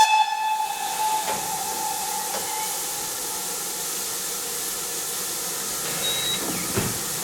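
Steam locomotive hissing steadily as steam escapes, with the tail of its whistle dying away over the first couple of seconds.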